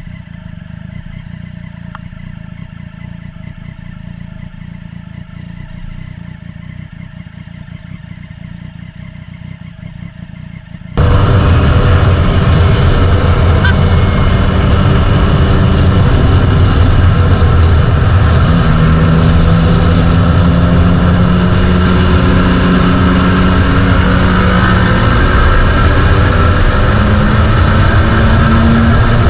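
Motorcycle engine running under way, steady and low at first. About eleven seconds in the sound cuts abruptly to a much louder engine whose pitch rises and falls as its speed changes.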